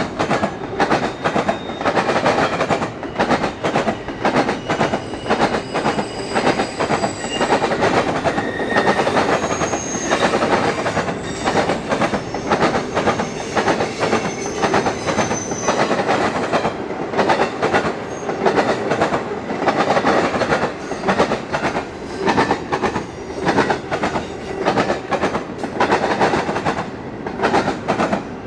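A Norfolk Southern intermodal freight train's cars rolling past at speed, the wheels knocking in a rapid, steady clatter. A few faint, brief squeals sound high above it.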